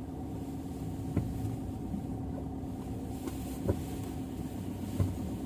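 Maruti car running, heard from inside the cabin: a steady low engine and road hum, with a few short knocks from bumps about a second in, near the middle and near the end.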